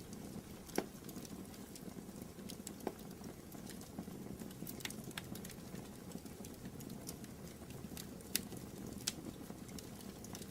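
Wood fire burning in a fireplace: a steady low rumble of the flames with irregular sharp crackles and pops, the loudest about a second in and again past the eight-second mark.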